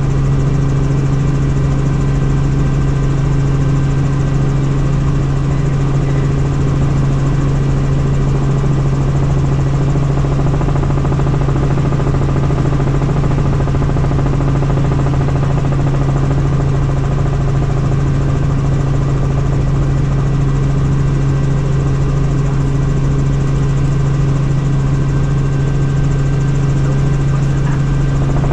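Helicopter in flight: a steady, loud drone of rotor and engine with a strong low hum that holds unchanged throughout.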